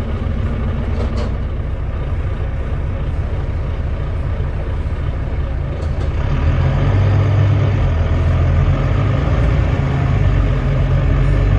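Volvo D9B 9.3-litre six-cylinder diesel of a Volvo B9TL double-decker bus running, heard on board. About six seconds in, the engine gets louder and deeper as it pulls harder.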